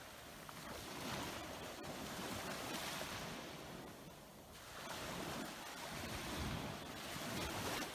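Ocean surf washing onto a beach: a steady rush of breaking waves that swells twice, easing briefly in the middle.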